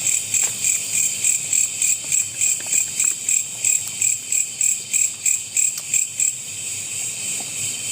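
Night insects chirping in the forest in a high, rhythmic pulse of about three chirps a second over a steady high-pitched drone. The pulsing stops about six seconds in, leaving the drone.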